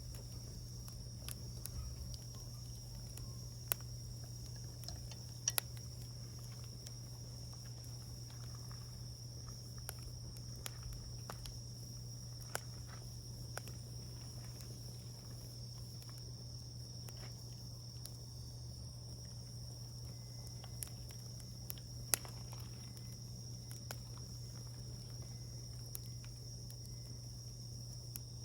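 Wood fire crackling softly, with scattered sharp pops and snaps, the loudest a few seconds in and again past the middle. A steady high-pitched insect trill runs under it.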